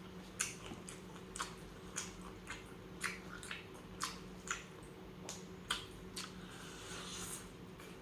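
Close-miked mouth sounds of someone eating and chewing tuna sisig: a series of short, wet smacking clicks about once or twice a second.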